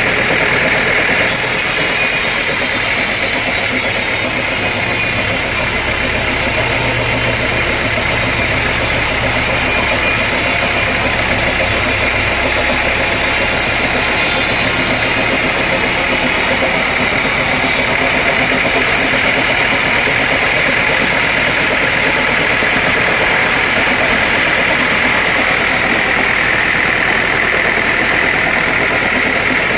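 Sawmill machinery running steadily, with a constant high whine over loud mechanical noise; a deeper hum comes in about five seconds in and fades out around fifteen seconds.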